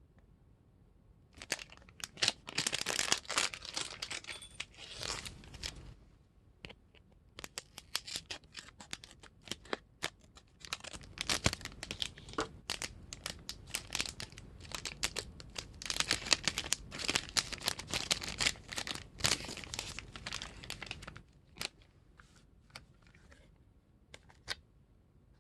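Plastic wrapper of a gummy candy pack being torn and crinkled by hand, in long stretches of crackling rustle. There is a short pause about six seconds in, and it dies down to a few faint clicks near the end.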